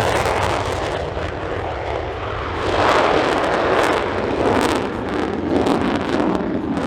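F-35A Lightning II jet, powered by its single F135 turbofan, flying past with a loud, rushing engine noise that swells about three seconds in.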